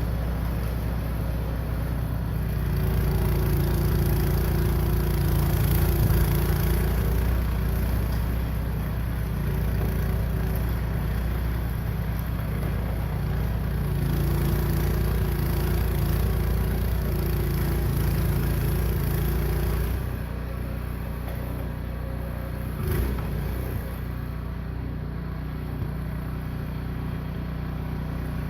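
Craftsman gas snow blower's single-cylinder engine running steadily under load. About twenty seconds in the sound drops a little in loudness and its low hum changes.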